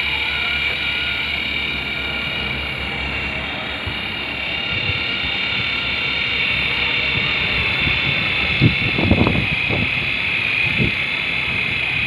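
Toy remote-control helicopter's small electric motor and rotors spinning, a steady high whine. A few brief low bumps sound about nine seconds in.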